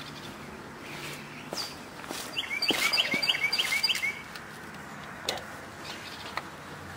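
A songbird sings a quick run of about six repeated chirping notes, a few per second, about two and a half seconds in. Around it there are a few light clicks and taps from hand work on the ATV engine's side-cover bolts.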